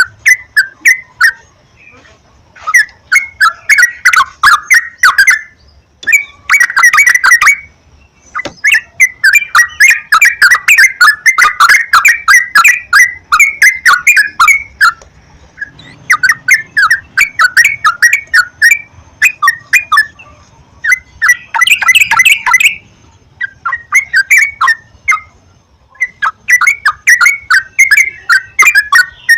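Yellow-vented bulbuls singing: loud, bubbly chattering phrases about a second or two long, repeated with short pauses, as used in a recorded lure song to set caged bulbuls singing.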